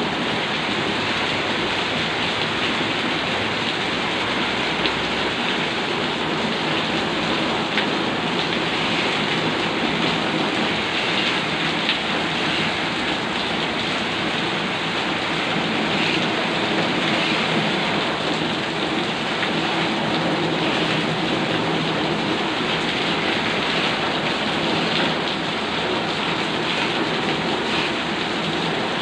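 Heavy rain pouring down steadily onto hard wet surfaces, a dense even hiss with faint scattered ticks of drops.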